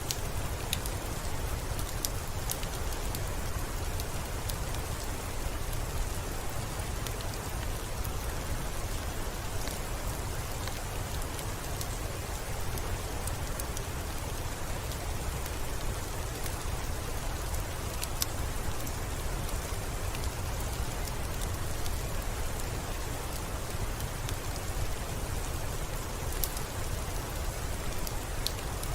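Steady, even rain, with a few sharp crackles from a wood fire scattered through it.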